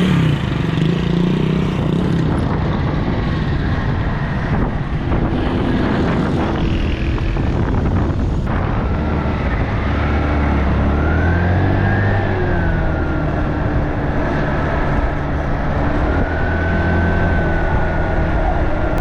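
Small motorcycle engine running under way, its pitch rising and falling as the bike speeds up and slows, with a heavy rumble of wind on the microphone.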